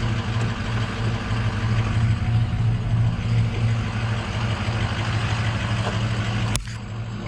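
Heavy truck engine idling with a steady, pulsing low hum. Near the end a sharp click comes, and the sound briefly drops quieter.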